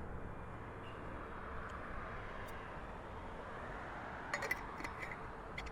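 Faint steady background noise with a low hum, and a quick cluster of light clicks a little past four seconds in.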